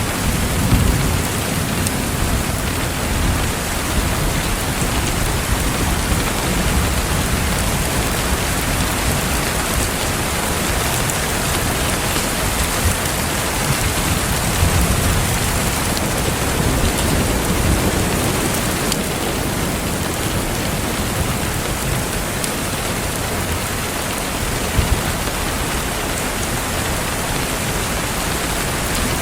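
Steady heavy rain falling on a surface, with low thunder rumbles swelling now and then. A couple of sharp pops from a crackling fireplace come about three quarters of the way through.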